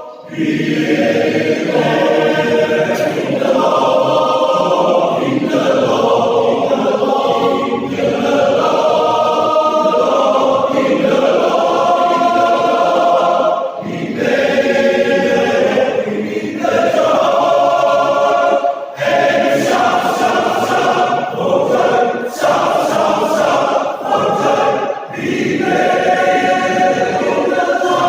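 Men's choir singing, many voices together, with brief pauses between phrases about halfway through and again later on.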